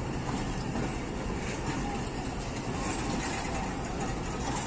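Pakistan Railways passenger coaches rolling past as the train pulls out of the station: a steady rumble of wheels on rail with a few faint clicks.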